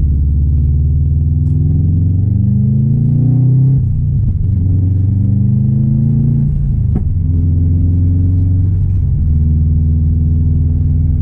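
2016 Subaru WRX STI's turbocharged 2.5-litre flat-four engine accelerating in gear: the pitch rises for about two seconds, drops suddenly at a gear change nearly four seconds in, climbs again, then settles to a steady cruise. There is one sharp click about seven seconds in.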